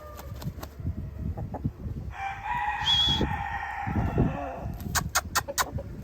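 A rooster crows once, a single call held for about two seconds. Near the end comes a quick run of sharp clicks.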